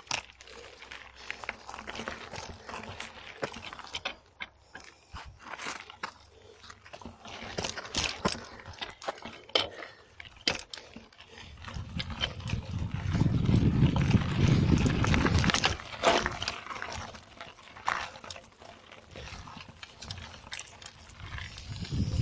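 Mountain bike riding over a rough dirt trail: a stream of irregular clicks, knocks and rattles from the tyres and bike over the ground. A low wind rumble on the camera's microphone swells about twelve seconds in and again near the end.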